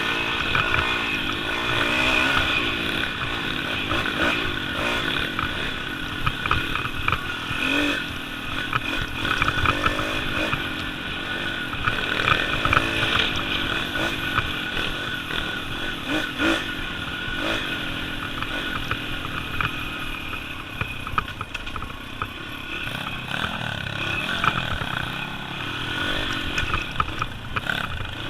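Small single-cylinder four-stroke pit bike engine running on the move off-road, its pitch rising and falling as the throttle is worked, with occasional knocks and rattles from the ride.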